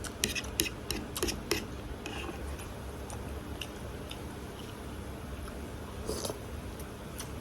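Close-up eating sounds: food being chewed, with short wet mouth clicks. The clicks come thickest in the first second and a half and again about six seconds in.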